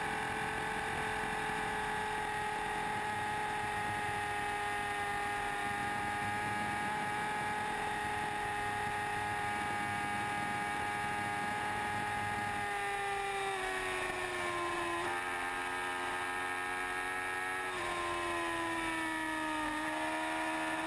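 Yamaha R1 sport bike's inline-four engine held at high revs near top speed, with heavy wind rush. About two thirds of the way in the revs fall as the throttle is rolled off, with two sudden rises in pitch, typical of downshifts while slowing.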